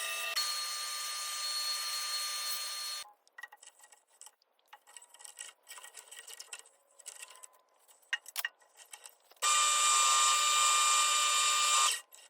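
Wood being cut or sanded on a wooden bowl. A steady rubbing noise with a few held tones stops abruptly about three seconds in. Faint, irregular scratching follows, and then the steady noise returns loudly and cuts off suddenly near the end.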